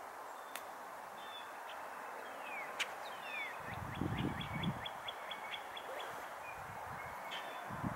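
Small birds chirping: many quick high chirps, a fast run of about a dozen short notes around the middle, and a couple of falling whistles, over a steady outdoor hiss. A few low thumps come in near the middle.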